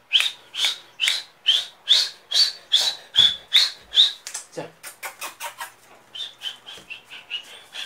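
Baby Indian parrot chicks calling: a steady run of short, sharp chirps about two or three a second, turning into a quicker string of fainter chirps about halfway through.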